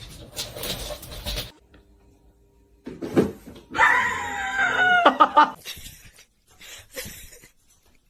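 A drawn-out animal cry, pitched and wavering, lasting about a second and a half, preceded by a single knock; a few short scuffling noises follow.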